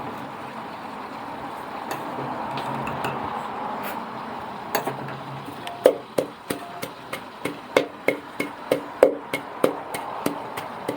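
A pestle pounding in a mortar, crushing chillies, garlic and sugar for a papaya salad dressing. The strokes start a little past halfway and run at about three a second, after a steady hiss.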